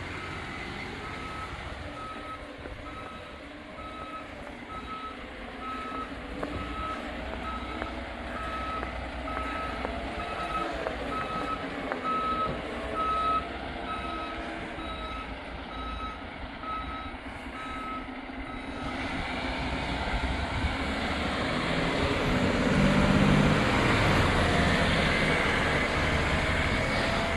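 Rubbish truck reversing with its back-up alarm beeping steadily, about one beep a second, over the running engine. The beeping stops about two-thirds of the way in, and the truck's engine then grows louder.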